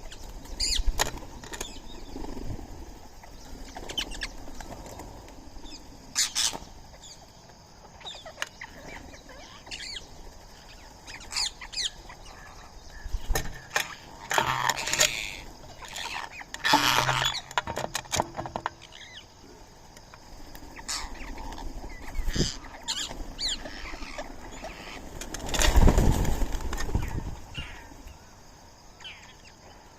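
Birds at a feeding spot: scattered short chirps and calls, with repeated bursts of wing flapping and rustling. Some of the bursts are louder, a few around the middle and the loudest near the end.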